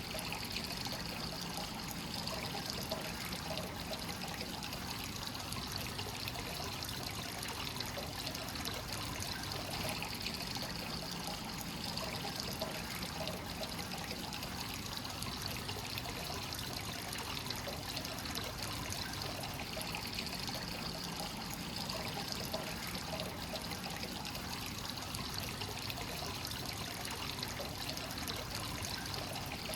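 Natural hot-spring water pouring steadily into a bath, a continuous splashing trickle that swells and eases slightly in places. This is the constant fresh inflow of a free-flowing (kakenagashi) onsen.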